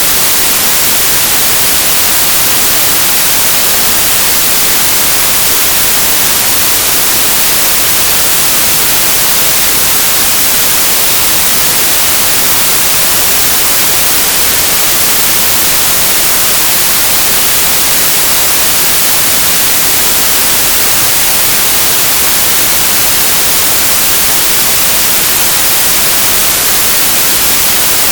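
Synthesized white noise: a steady, loud, bright hiss with no changes or events.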